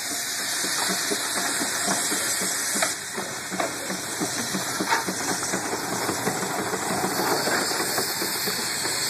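40 hp single-cylinder Case steam traction engine hissing steam as it is bled off, with a quick, regular chuffing from its cylinder exhaust. Steam is being worked against the cylinder to hold the brakeless engine back as it comes down a steep incline.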